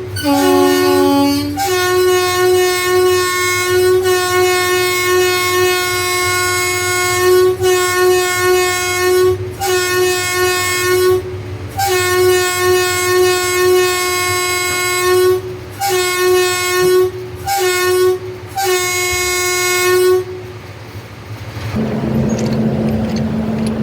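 Locomotive horn sounded again and again to warn a herd of buffaloes off the track: a long blast of about eight seconds, then several shorter blasts. It stops about twenty seconds in, leaving a steady low hum.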